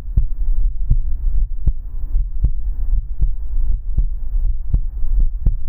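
Heartbeat sound, a steady beat of about 78 a minute, over a continuous low rumble.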